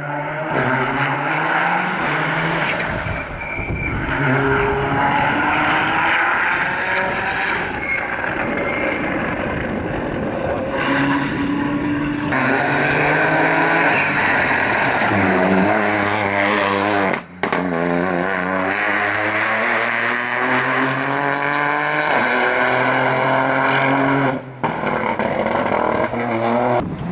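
Rally car engines run hard at full throttle. The pitch repeatedly climbs and drops back with gear changes, and sweeps down as cars pass. The sound breaks off abruptly twice, about two-thirds of the way in and near the end.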